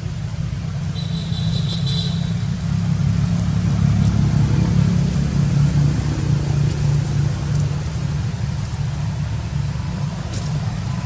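Steady low engine-like rumble that swells slightly mid-way, with a brief high chirping about a second in.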